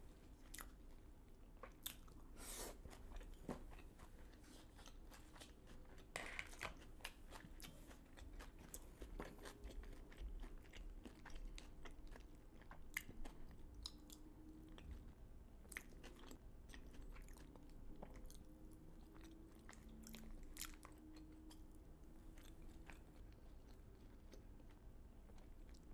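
Faint, close-miked chewing of a mouthful of KFC fried chicken and waffles, with scattered soft crunches and small mouth clicks throughout.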